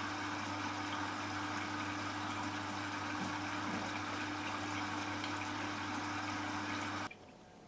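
Hotpoint washing machine taking in water: a steady rush of water with a low electrical hum, which cuts off suddenly about seven seconds in.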